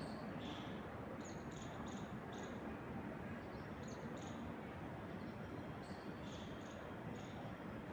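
Wind moving through trees as a steady rush, with birds giving short high chirps over it again and again.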